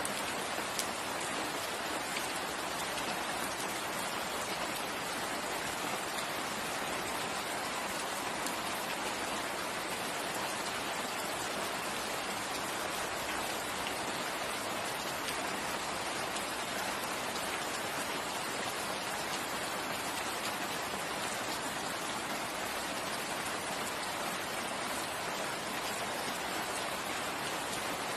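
Steady rain falling in a forest: an even, unbroken hiss of many drops that does not change in strength.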